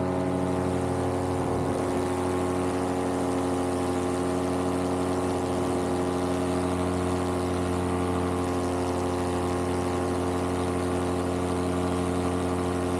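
Vittorazi Moster 185 paramotor's single-cylinder two-stroke engine and propeller running in flight at a steady throttle, a constant drone that holds the same pitch throughout.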